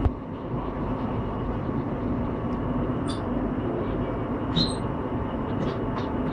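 Passenger train coach rolling along the track, heard from inside the carriage: a steady low rumble with a few faint clicks and rattles. A short thump comes at the very start.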